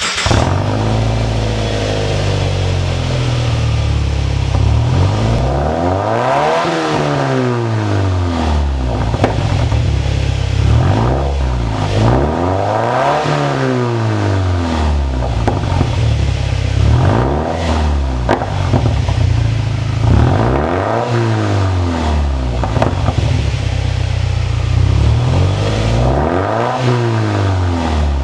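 MY10 Subaru Liberty/Legacy GT's turbocharged flat-four engine, heard through an aftermarket turbo-back exhaust. It idles and is revved about five times, the pitch rising and falling back to idle each time.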